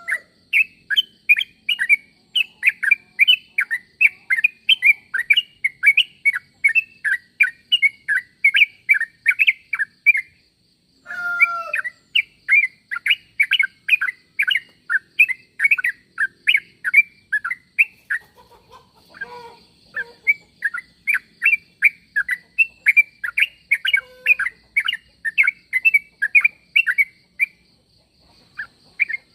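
Trucuk (yellow-vented bulbul) calling: a fast, even run of short chirps, about two or three a second, pausing briefly twice. A faint steady high whine runs underneath.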